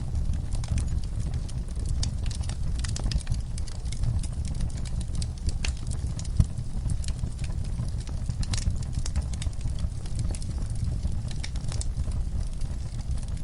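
Wood fire in a fireplace crackling, with irregular snaps and pops over a steady low rumble; one louder pop about six seconds in.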